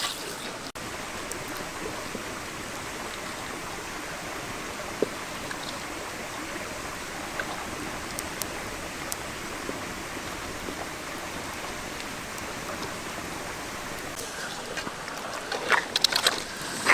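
Steady rushing of stream water, with a few sharp splashes or knocks near the end.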